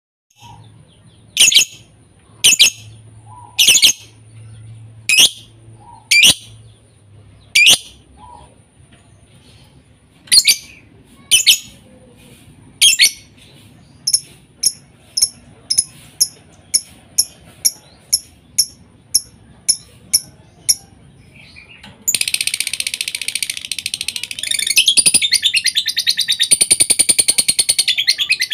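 Lovebird calls: loud, shrill single chirps about one a second, then quicker, shorter chirps about two a second. After about twenty seconds these give way to a continuous, dense, high chattering trill.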